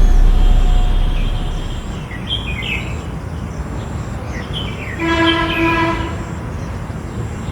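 Small birds chirping in short calls, over a low rumble that fades away in the first two seconds. About five seconds in, a horn sounds once for about a second.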